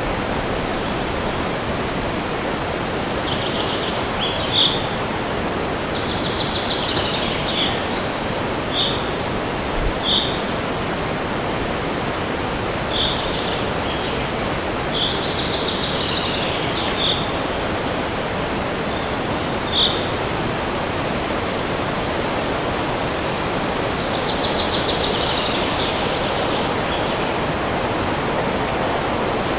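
Steady rushing wind in a forest, with a songbird singing short clear high notes every second or two and three longer trilled phrases.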